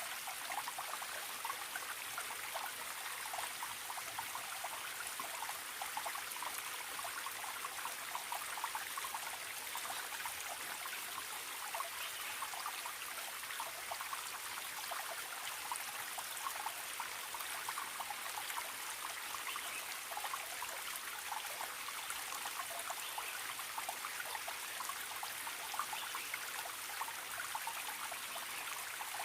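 Stream trickling and babbling steadily, a dense patter of small splashes with no let-up.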